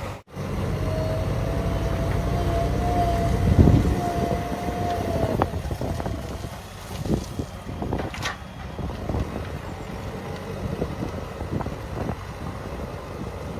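Diesel engine of heavy earth-moving machinery running, with a steady whine held for the first few seconds and wind buffeting the microphone. It drops quieter after about five seconds, leaving scattered knocks.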